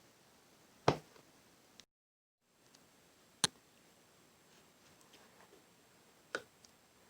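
Avalanche slime being pressed and stretched by hand: three sharp, wet clicks or pops a few seconds apart over a quiet background, the first the loudest. The sound cuts out completely for about half a second near two seconds in.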